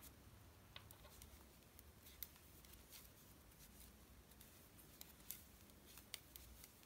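Near silence with faint, scattered clicks of two knitting needles working stitches.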